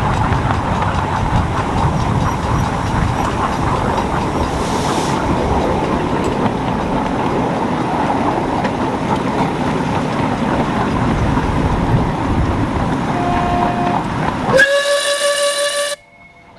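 Miniature railway train running, a steady rumbling clatter of wheels on the rails. Near the end a chime whistle sounds for about a second before the sound cuts off abruptly.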